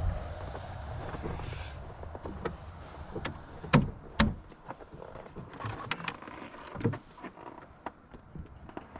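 A low vehicle rumble fades out over the first couple of seconds, followed by scattered sharp clicks and knocks, the two loudest close together about four seconds in.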